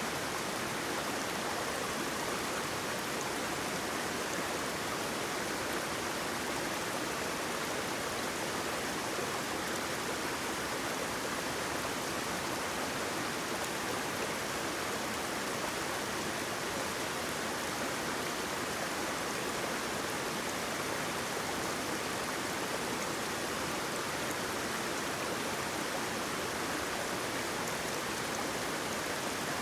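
Steady rush of flowing water from a stream or waterfall, an even unbroken noise with no changes.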